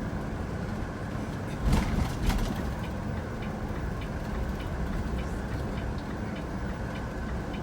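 Road and engine noise inside a moving tour vehicle: a steady low rumble with two knocks about two seconds in. A light, regular ticking, about twice a second, runs through the second half.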